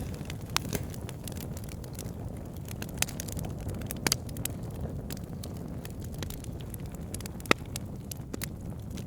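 Wood fire burning, with logs crackling: a steady low rumble of flame under many small ticks and a few sharper pops, the loudest about seven and a half seconds in.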